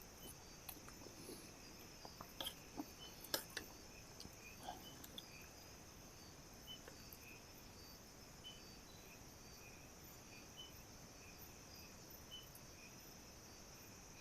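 Faint, steady high-pitched chorus of crickets and other insects in the forest, with small repeated chirps over it. A few light clicks and taps in the first five seconds.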